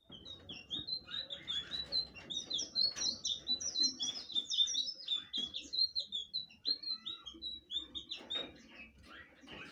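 Blue flycatcher (sikatan biru) singing a fast, continuous run of short, high, downward-slurred notes that trails off about eight seconds in.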